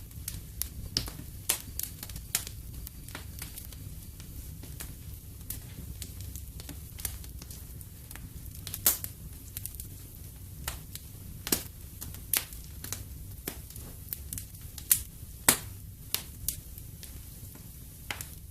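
Wood fire in a fireplace crackling, with irregular sharp pops over a low steady rumble of the flames.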